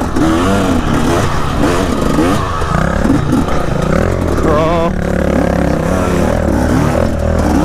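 Dirt bike engine revving up and down as it is ridden through tight trail corners, its pitch rising and falling over and over, then holding steadier from about five seconds in.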